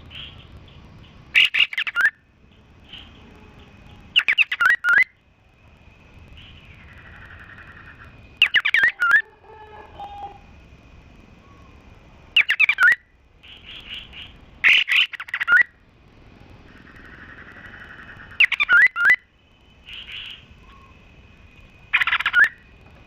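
Caged songbirds (a mix of cililin, canary and kapas tembak) calling in short loud bursts of rapid chattering notes about every three to four seconds, with softer trills between them and a thin steady high whistle behind.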